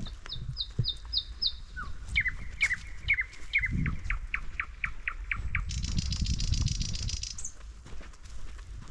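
Small forest birds calling: a quick run of short, high, falling chirps, then a longer run of short chirps lower down, then a harsh buzzing rattle for about a second and a half. Footsteps on the forest floor sound under the calls.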